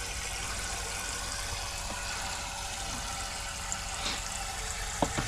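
Kitchen tap running steadily, water filling a pot for noodles.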